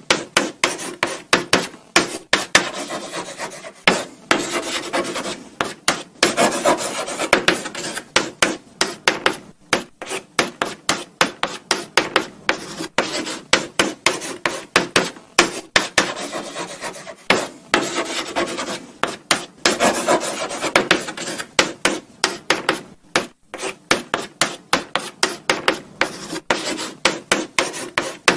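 Chalk writing on a blackboard: quick strings of short scratching strokes and taps, several a second, with brief pauses between words.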